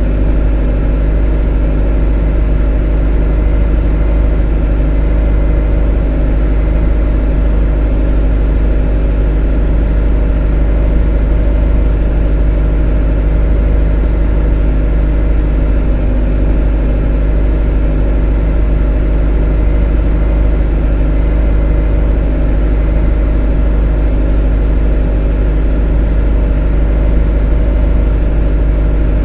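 A motor running at a constant speed: a deep, even hum with several steady tones above it that never changes.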